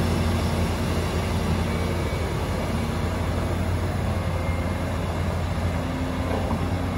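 Heavy diesel engine running steadily, a continuous low drone with no sharp knocks or changes.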